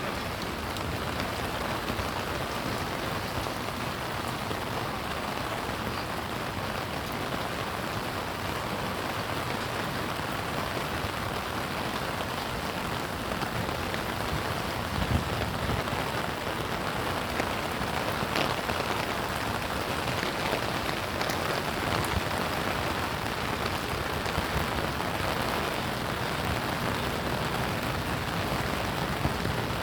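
Steady rain falling and pattering on surfaces, with a few sharper drop hits scattered through it.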